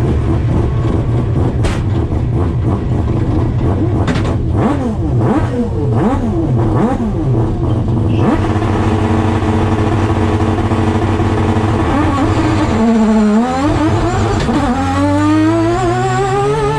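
Mazda RX-7's peripheral-port 20B three-rotor engine heard from inside the car. For the first eight seconds or so it runs low with revs swinging up and down. It then runs hard under load, briefly dips and drops in pitch near thirteen seconds as a gear changes, and climbs steadily in pitch as the car accelerates.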